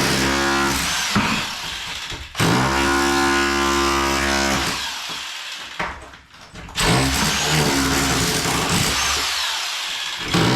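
Bosch Bulldog Max SDS Plus rotary hammer with a tile chisel bit hammering, chipping up floor tile and cement board. It runs in three stretches, with a brief stop just over two seconds in and a longer one around six seconds in.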